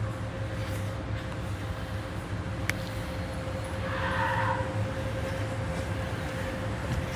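Steady low hum of a car idling, heard from inside the cabin, with a steady tone over it. There is a single sharp click about two and a half seconds in and a brief muffled sound about four seconds in.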